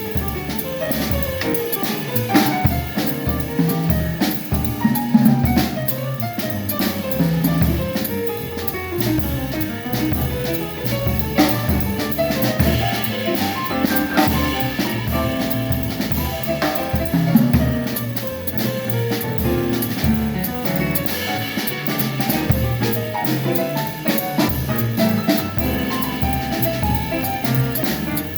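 Live jazz quartet playing, a drum kit keeping time under quick melodic runs.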